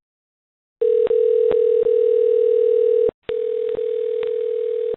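Telephone line silent at first, then a steady dial tone starting about a second in. It breaks off briefly just after the middle and resumes a little quieter, with faint clicks on the line, as after the call has dropped.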